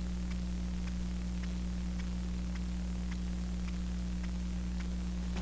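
Steady electrical hum with hiss from the room's recording chain, with faint light ticks every half second or so.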